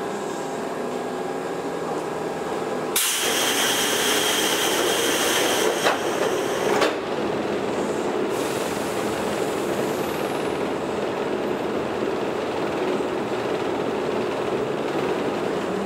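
Toyohashi Railway 1800 series electric train running along the line: a steady rumble of wheels and running gear. About three seconds in, a louder rushing noise cuts in suddenly, with two sharp clicks, and dies away after about five seconds.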